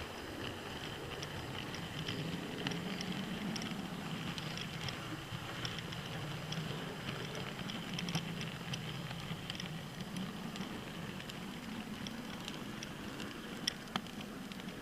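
Model train running on the layout: a steady motor hum with many small irregular clicks, and two sharper clicks near the end.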